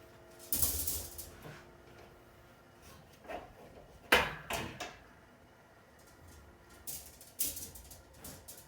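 Several separate knocks and scrapes, the loudest about four seconds in, as a copper tube is worked through a hole in a refrigerator's wall.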